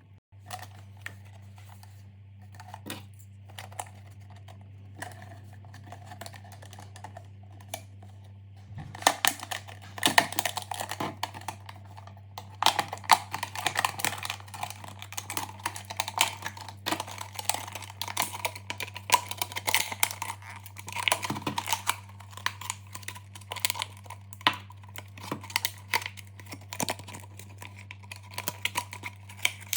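Irregular quick clicks and taps of small objects being handled, sparse at first and much busier from about nine seconds in, over a steady low hum.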